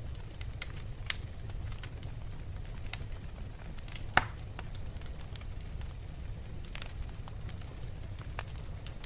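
Wood fire burning in a fireplace, crackling with scattered small pops over a steady low rumble; one sharp, louder pop about four seconds in.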